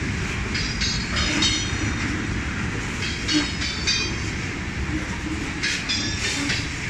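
Freight train of tank cars and covered hoppers rolling past close by: a steady low rumble of steel wheels on rail, broken several times by brief high-pitched squeals of wheels against the rail.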